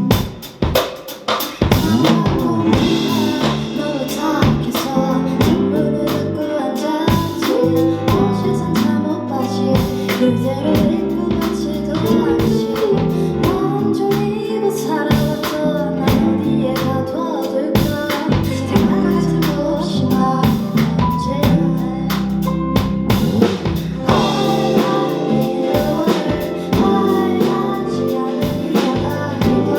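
Live band music with a full drum kit, bass and a woman singing, recorded from the audience; the drums and full band come in about a second in.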